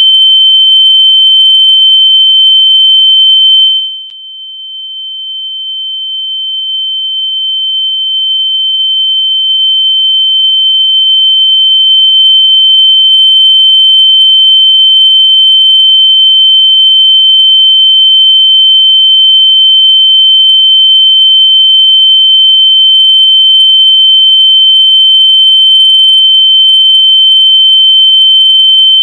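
A loud, steady, high-pitched electronic tone, a locator sound meant to be played through lost AirPods to find them. About four seconds in it drops sharply in loudness, then swells back to full over the next eight seconds.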